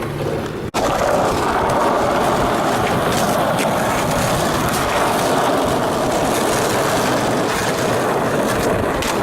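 Skateboard wheels rolling steadily over pavement, a continuous rumble that starts after a brief cut just under a second in.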